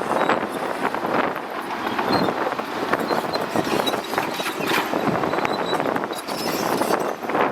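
Shantui DH17C2 crawler bulldozer working, its engine running under a steady clatter of the steel tracks clanking.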